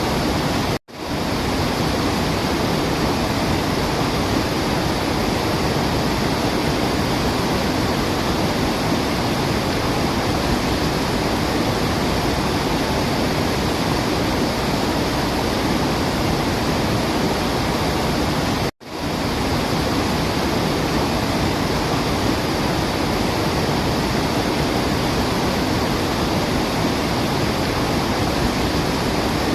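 Steady, dense rushing of water, like a waterfall or torrential downpour, with no birdsong heard. The sound cuts out abruptly for a split second twice, about a second in and again about two-thirds of the way through.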